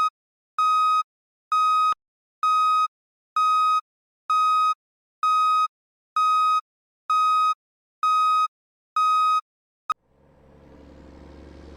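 An electronic beep repeating evenly, about once a second, eleven times, with silence between the beeps. It stops with a click near the end, and a low rumble rises in its place.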